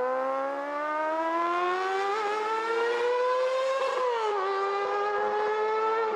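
Kawasaki ZX-25R's 250 cc inline four-cylinder engine revving very high as the motorcycle accelerates away into a tunnel. A high wail climbs steadily in pitch for about four seconds, drops sharply at an upshift, then holds steady.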